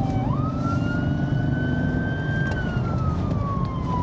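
Police siren in a slow wail, over the steady rumble of the car's engine and road noise at speed. The wail sweeps up quickly just after the start, climbs slowly, then falls over the last second and a half.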